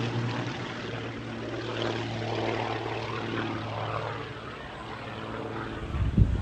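A propeller airplane's engine drones steadily overhead, its note shifting in pitch as the plane passes. Near the end comes a short burst of wind buffeting the microphone.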